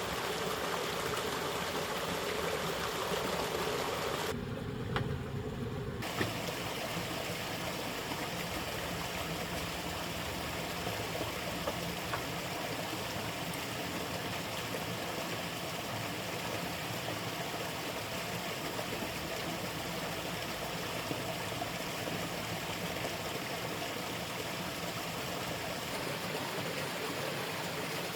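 Steady rush of flowing stream water, with a few faint knocks; the sound changes abruptly for a couple of seconds about four seconds in.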